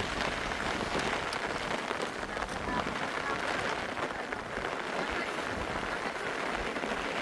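Steady rain falling on a surface, with scattered drop ticks.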